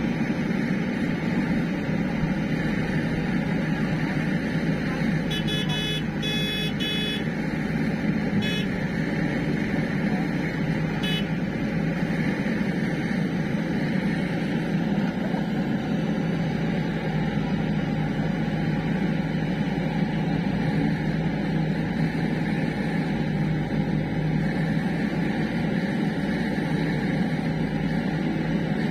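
Steady engine drone with no change in speed, with a few brief high-pitched tones about five to seven seconds in and twice more shortly after.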